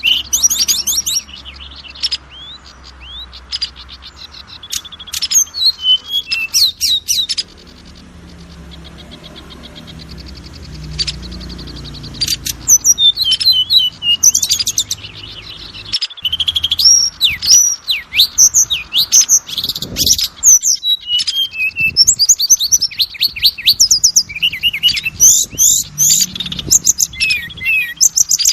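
Oriental magpie-robin (kacer) singing loud, varied phrases of rapid trills and sweeping whistles. There is a lull of a few seconds about a quarter of the way in, then dense song for the rest.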